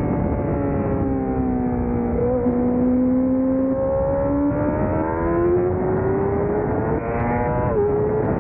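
600cc sport-bike racing engine. The revs fall for about two seconds, with a quick blip as it shifts down. They then climb steadily for several seconds and drop suddenly near the end on an upshift, over a steady rushing noise.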